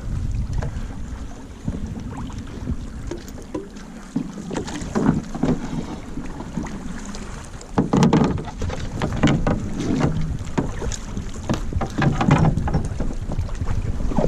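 Wind rumbling on the microphone in a canoe, with irregular knocks and thuds from about five seconds in, the loudest a little after the middle.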